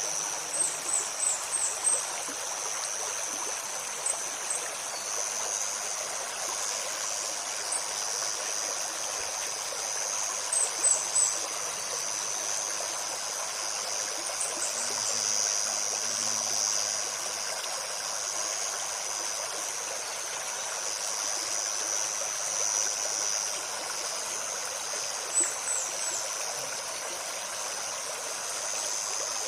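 A shallow stream babbling steadily over stones, with short high bird chirps in quick little runs near the start, around the middle and near the end.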